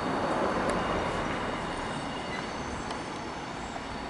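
Train rolling past on the line and moving away: a steady rumbling rush that fades slowly.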